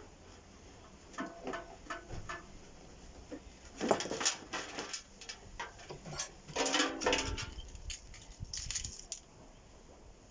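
Metal and plastic parts of a microwave being worked apart with hand tools: scattered clicks, scrapes and clanks, with the loudest clatter about four seconds in and again about seven seconds in.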